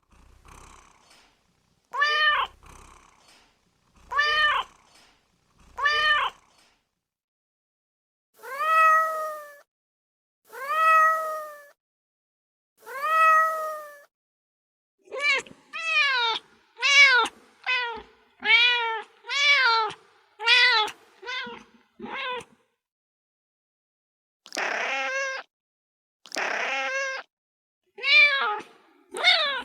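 Domestic cat meowing over and over, each meow separate with gaps between. There are three short meows, then three longer drawn-out ones, then a quick run of about a dozen short meows. Near the end come two rough, hoarse calls and two more meows.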